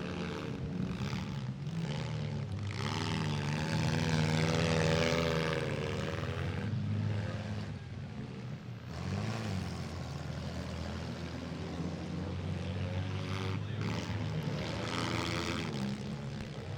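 Engines of several demolition-derby minivans, mini trucks and SUVs running together as a steady drone, revving up loudly about three seconds in and again near the end.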